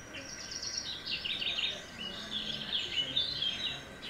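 A small bird singing: quick runs of high, sharp chirps that step down in pitch, repeated in several phrases.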